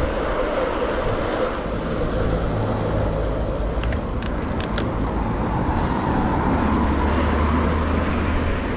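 Steady wind and tyre noise from a road bike being ridden along a road. A few short clicks come about halfway, and a motor vehicle's low hum builds in the second half.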